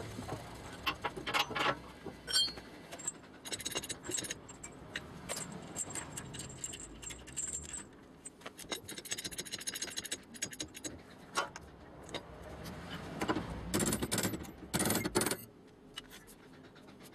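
Metal hand tools clinking, tapping and scraping on sheet metal in irregular strokes, with a denser, louder run of strokes near the end.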